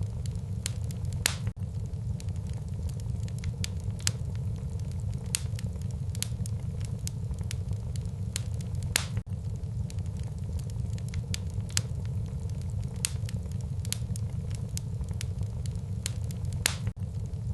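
Wood fire burning in a fireplace: a steady low rumble of flame with frequent sharp crackles and pops, several a second, a few louder than the rest.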